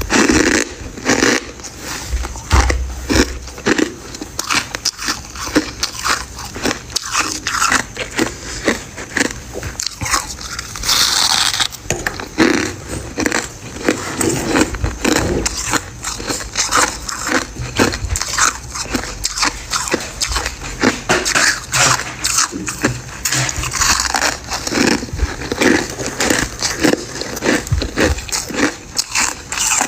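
Close-miked biting and chewing of crunchy freezer-frost ice pieces: dense, continuous crunching and crackling, each bite breaking into many sharp little cracks.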